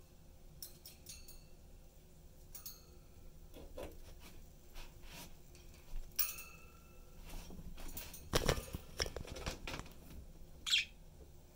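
Pet budgerigars giving a few short chirps, one brighter call near the end, among scattered clicks and taps, with a loud cluster of taps a little past the middle.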